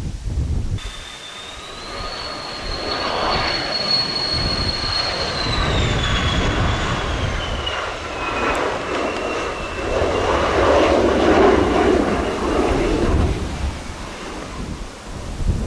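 Mitsubishi F-2 fighter's single General Electric F110 turbofan passing on landing: a high whine that falls in pitch between about six and nine seconds in as the jet goes by, followed by a broad jet roar that is loudest about ten to thirteen seconds in.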